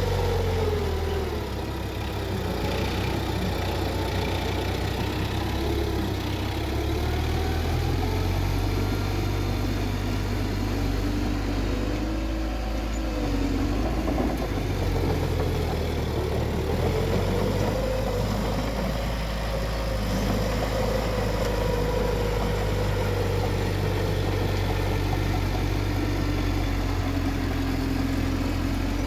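Bulldozer's diesel engine running steadily, its pitch sagging and recovering over several seconds at a time as the load on it changes.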